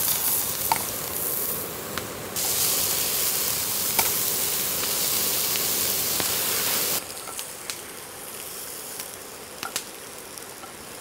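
Beef burger patties sizzling in a non-stick frying pan over a small gas canister stove. The sizzle is loud with a brief dip about two seconds in, then falls to a fainter hiss with a few light clicks about seven seconds in.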